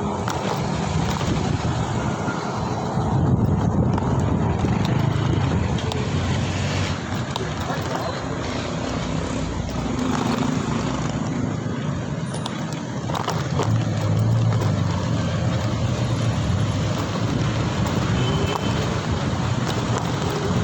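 Riding-along road noise from a moving vehicle: a steady low rumble of engine and tyres with wind on the microphone, swelling a little around 3 and 14 seconds in.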